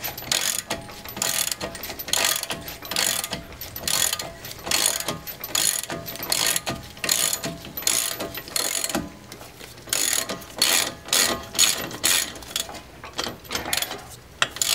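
Ratchet wrench cranked in repeated quick strokes, its pawl clicking in bursts about two or three times a second, as a stuck CV axle is pushed out of the wheel hub.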